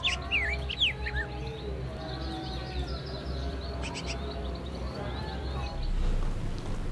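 Quick bird chirps in the first second or so, over sustained background music.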